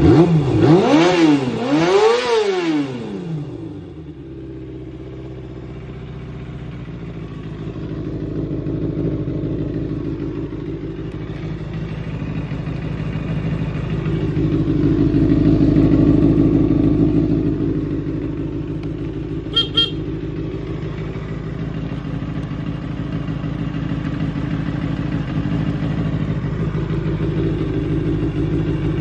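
Kawasaki Balius 250's inline-four engine, just started, revved twice with the pitch rising and falling, then settling into a steady idle that swells a little around the middle. A brief sharp high-pitched chirp sounds about two-thirds of the way through.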